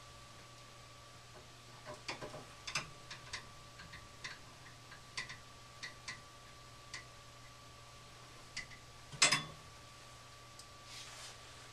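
Irregular light clicks and taps of metal parts and tools being handled inside a furnace cabinet, with one louder knock about nine seconds in, over a faint steady hum.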